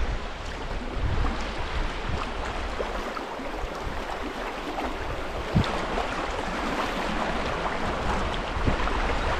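River water rushing and splashing around a moving kayak, with a few dull low knocks.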